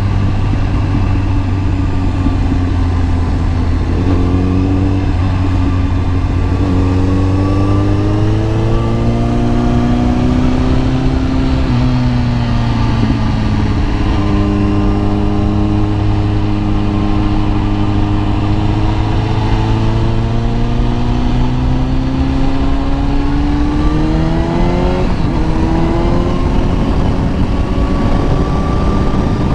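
Kawasaki ZX-10R inline-four engine riding under load, its pitch climbing slowly, dipping about twelve seconds in, then climbing again until a sudden drop about twenty-five seconds in, over a steady rush of wind.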